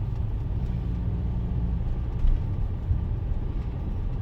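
Car running: a low, steady rumble of engine and road noise, with a brief louder bump about halfway through.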